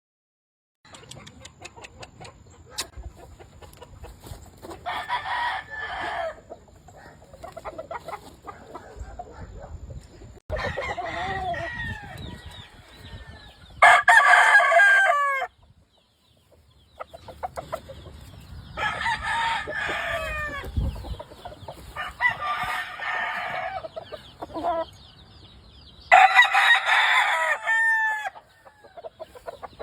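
Gamefowl roosters crowing, about six crows a few seconds apart, with the loudest in the middle and near the end, over quieter clucking and farmyard background.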